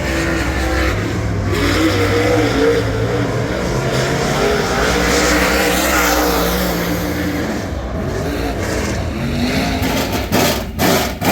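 Dirt super late model race car's Ford 422 cubic inch V8 at full race pace on track, its pitch rising and falling as the throttle is opened and lifted through the corners. A couple of loud thumps come near the end.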